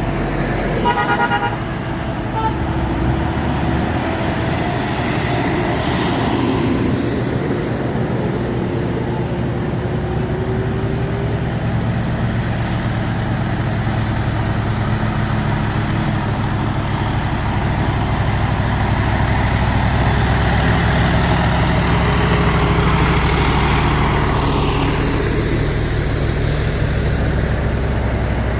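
A truck's diesel engine running steadily under load, with a short horn toot about a second in.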